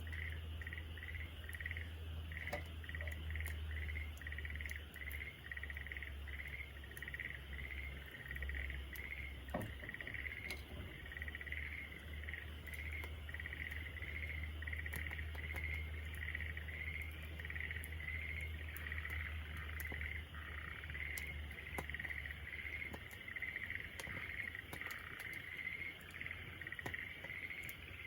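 Campfire crackling with scattered sharp pops, under a steady chorus of rhythmic animal chirping repeating a few times a second, and a steady low rumble.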